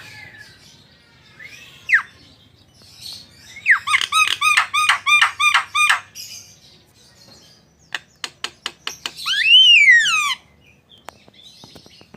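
Javan myna calling: a single falling whistle, then a fast run of about a dozen repeated harsh notes, a few sharp clicks, and a long whistle that rises and then falls.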